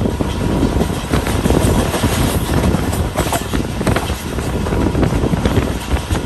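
Passenger train running along the track: a steady, loud rumble of wheels on rails with frequent clicks and rattles.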